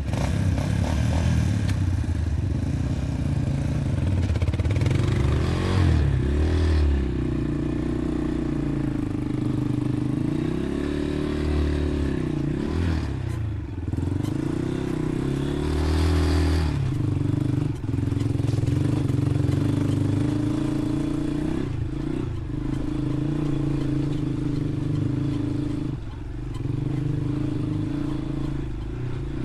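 Dirt bike engine running under way, the revs rising and falling repeatedly with throttle and gear changes.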